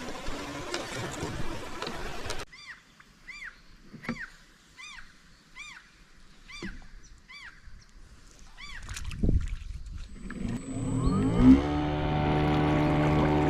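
A steady vehicle-like rumble and hiss that cuts off abruptly about two and a half seconds in. About ten short, evenly spaced chirps follow, each rising then falling in pitch. Near the end come a low thump and music fading in.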